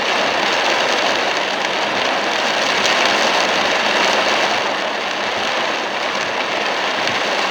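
Heavy downpour on a moving car: a steady rush of rain on the car body blending with the hiss of tyres on the drenched road.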